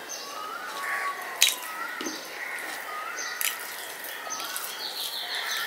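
Birds chirping, one short curling call repeated about every two-thirds of a second, with a buzzy trill near the end. A sharp click comes about one and a half seconds in, the loudest sound, and a smaller one about two seconds later.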